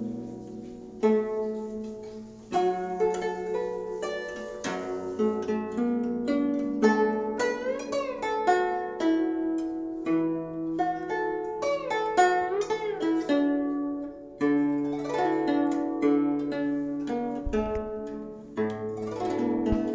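Chinese plucked zither playing a melody of plucked notes, some bent up and down in pitch by pressing the strings, over ringing low bass notes.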